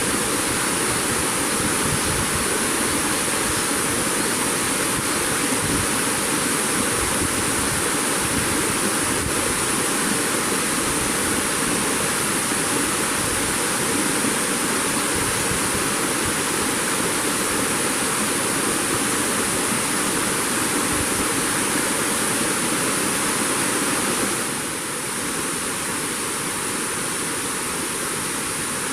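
Steady rushing noise with a constant high-pitched hiss above it, easing slightly about 24 seconds in.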